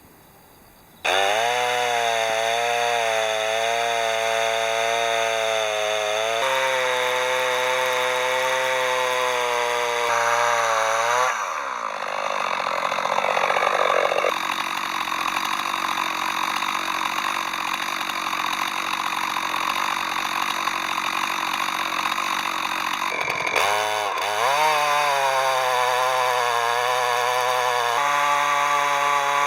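A two-stroke chainsaw milling a log lengthwise in an Alaskan chainsaw mill. It starts suddenly about a second in and runs at a steady pitch. About 11 s in the pitch rises into a rougher, noisier stretch; near 24 s the pitch dips and then climbs again.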